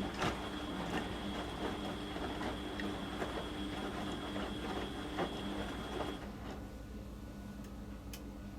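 Beko washing machine drum turning during the wash cycle: a steady motor whine with irregular soft clunks and splashes of the wet blanket tumbling, stopping about six seconds in as the drum pauses between turns.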